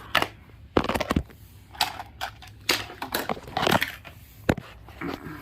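Irregular clicks and clacks of small toys being handled, several sharp knocks spread through a few seconds.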